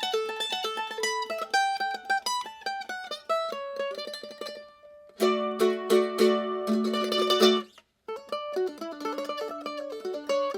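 F4-style mandolin played with a pick: a single-note melody, then strummed chords from about five seconds in. After a brief break near eight seconds, quick single-note picking starts again.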